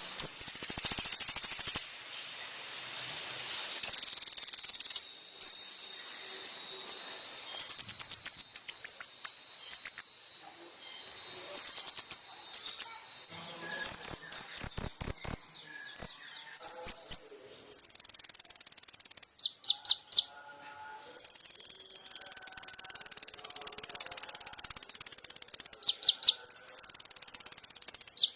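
Konin (kolibri ninja sunbird) singing a varied song of very high, rapid chirps and stuttering trills, with a long unbroken buzzing trill about three-quarters of the way in.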